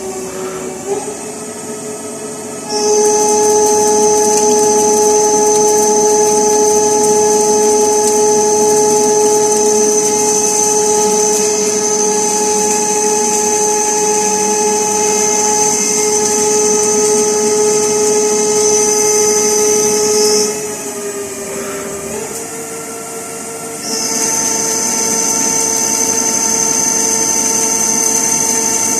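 Colchester CNC lathe running while machining tool steel: a steady whine of several held tones. It grows louder, with a high whine added, from about three seconds in to about twenty seconds, drops back, then comes up again about twenty-four seconds in at a slightly higher pitch.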